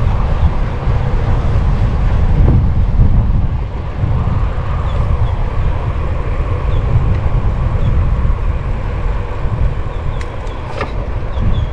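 Steady rush of wind and road noise on a moving bicycle along a street with car traffic, heaviest in the low end. A few sharp clicks come near the end.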